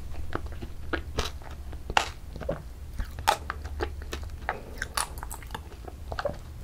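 Close-miked chewing of a mouthful of ice cream with crunchy mix-ins: irregular crisp crunches and small clicks, several a second, over a low steady hum.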